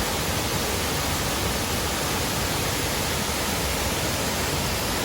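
Waterfall's water rushing as a steady, even noise.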